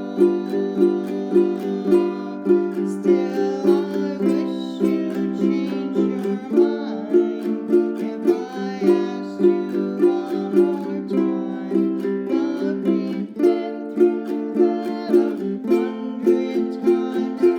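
Ukulele strummed in a steady shuffle strum, about two strokes a second, with a voice singing along through much of the middle.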